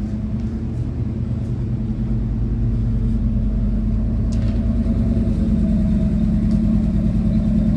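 Vehicle engine running steadily, a low hum that slowly grows a little louder.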